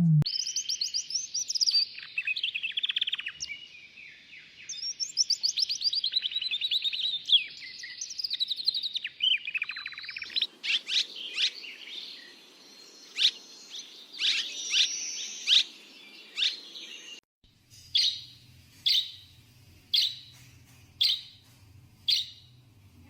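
Birds singing in three spliced recordings: a fast, varied warbling song for about ten seconds, then sharper separate calls, then one short chirp repeated about once a second.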